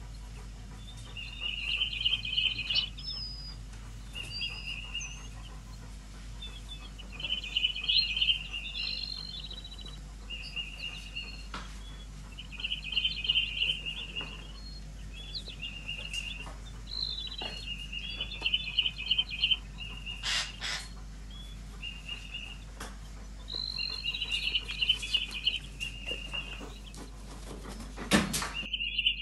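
Bird chirping in short phrases that come back about every five to six seconds. There are two sharp knocks, the louder one near the end.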